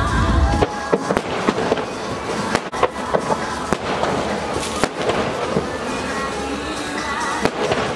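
Aerial firework shells bursting one after another, a rapid, irregular run of sharp bangs and pops.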